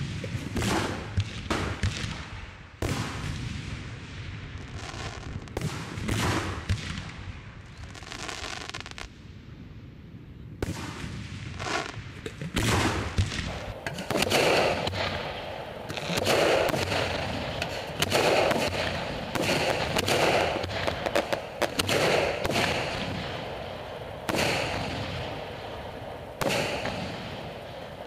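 Aerial firework shells bursting one after another, each a sharp bang with an echoing tail. The bursts come thicker and faster from about halfway through.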